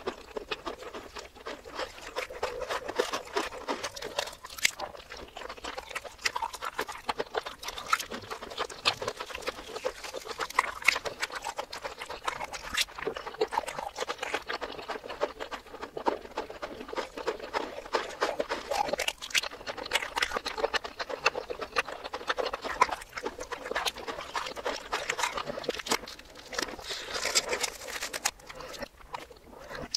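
Close-miked chewing and crunching of fried breaded mozzarella cheese balls, played backwards: a steady stream of crunches and wet mouth clicks.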